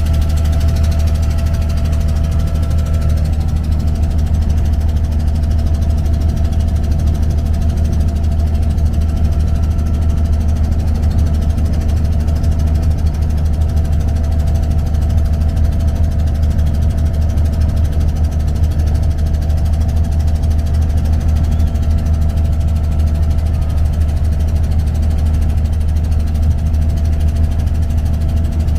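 Abra's inboard diesel engine running steadily, a constant low drone.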